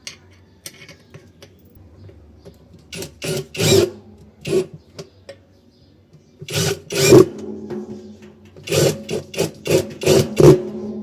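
A small stiff brush scrubbing, in irregular bursts of short rasping strokes.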